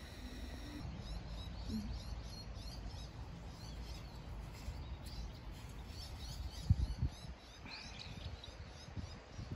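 Small birds chirping over and over in quick short notes, over a low rumble. A single dull thump comes about two-thirds of the way through.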